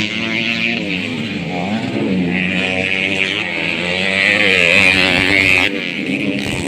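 Several motocross bikes racing, their engines revving up and down in overlapping pitches as they accelerate and shift. The sound drops suddenly near the end.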